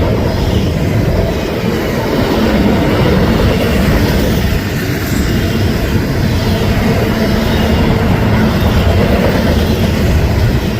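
Long Union Pacific intermodal freight train rolling past close by: a loud, steady rumble of steel wheels on the rails.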